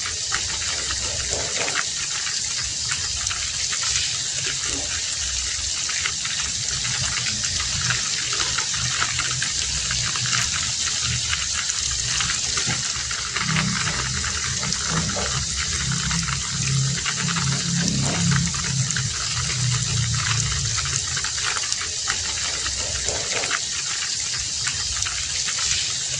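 Heavy rain falling steadily in a dense hiss. A low hum comes up underneath for several seconds in the middle.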